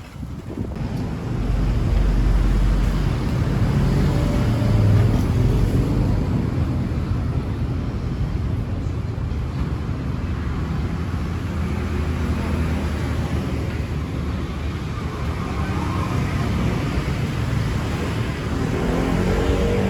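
City street traffic: motorbike and car engines running close by, a steady low rumble that rises about a second in and holds.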